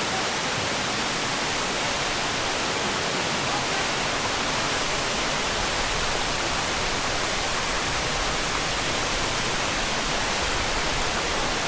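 Waterfall roaring close by: a steady rush of falling water.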